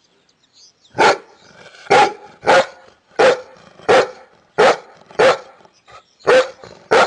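A large shepherd-type dog barking repeatedly: about nine short, loud barks, one roughly every half to three-quarters of a second, starting about a second in.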